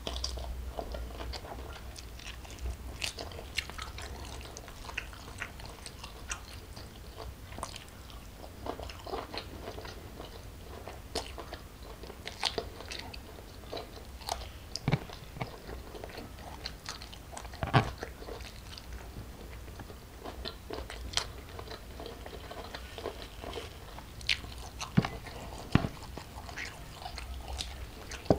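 Close-miked eating sounds: chewing and biting of chilli-sauced prawns and raw vegetables, with many short wet clicks and crunches at irregular intervals. The sharpest ones come about two-thirds of the way through and again near the end.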